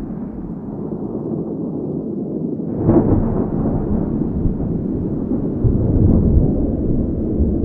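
Thunder: a sudden crack about three seconds in, followed by a deep rumble that rolls on and swells again a little later, over a steady background of wind.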